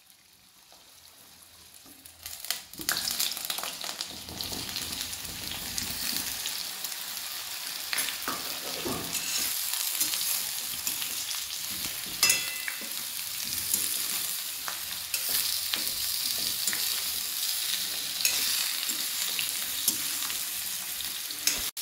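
Boiled jackfruit pieces sizzling as they fry in hot mustard oil in a metal kadhai, with a metal spoon scraping and clinking against the pan as they are stirred. The sizzle starts faint and grows louder over the first few seconds.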